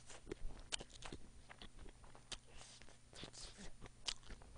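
A person chewing a mouthful of food close to a microphone: irregular soft wet clicks and smacks of the mouth.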